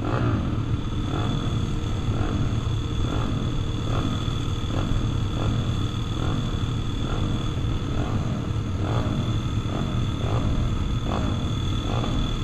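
Pit bike engines running on a motocross track, a steady low engine drone with repeated short rises and falls in pitch as the bikes rev.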